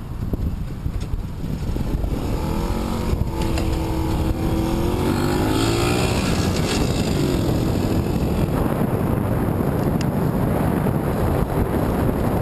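Wind buffeting the microphone of a moving bicycle. A motor vehicle's engine passes from about two to seven seconds in, its pitch bending as it goes by.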